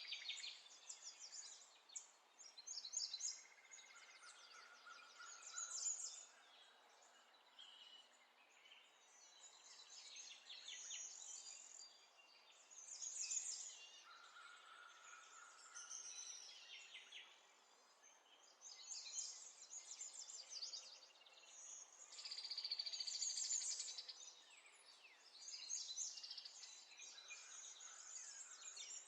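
Faint birds chirping and trilling in short repeated phrases.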